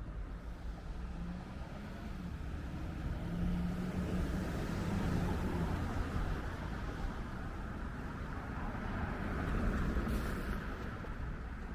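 Road traffic on a city street: cars passing, the noise swelling about three seconds in and again near the end.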